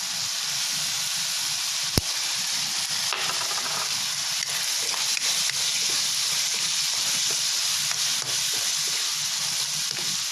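Bell pepper and onion sizzling in a frying pan in a ketchup and vinegar sauce while being stirred, a steady hiss with one sharp tap about two seconds in.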